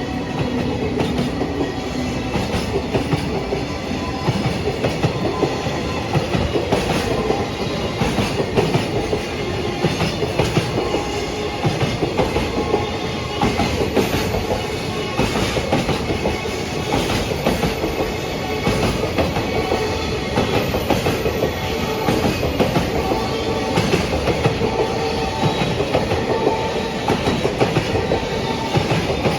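Train running along the rails: a steady rumble with frequent clicks as the wheels cross rail joints.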